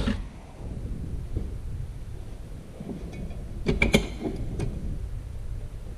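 Metal parts of a Ford E4OD automatic transmission's gear train knocking and clinking as they are handled and lifted out: a sharp clank at the start, a few light knocks, and a cluster of ringing metal clinks about four seconds in.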